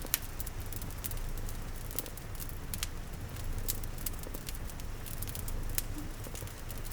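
Layered ambience of a cat purring in a steady low rumble, a wood fire crackling with frequent sharp irregular pops, and soft rain.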